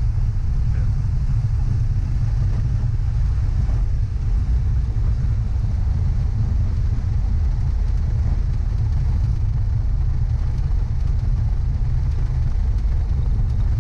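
Piper PA-28 light aircraft's engine running at low power under a loud, steady low rumble of gusty wind buffeting the camera microphone.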